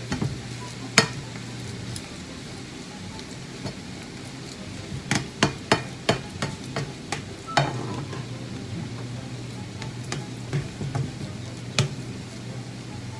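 Roast beef hash frying in a pan with a steady sizzle, while a utensil stirs it and knocks against the pan: one knock about a second in, a quick run of sharp knocks around the middle, and another near the end.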